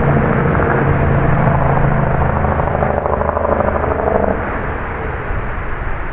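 Thunderstorm wind gusting with heavy rain, a loud rushing noise with low rumble on the microphone that eases a little about four seconds in.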